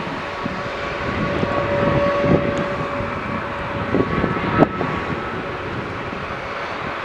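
Jet engines of a Boeing 737 airliner running on the airfield: a steady rush with a faint steady whine in the first half, and a short click about four and a half seconds in.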